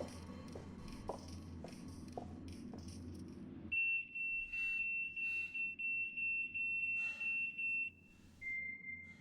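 A low steady rumble with soft clicks about twice a second. About four seconds in, a loud, high-pitched electronic tone starts suddenly and holds for about four seconds. A softer, slightly lower tone takes over near the end.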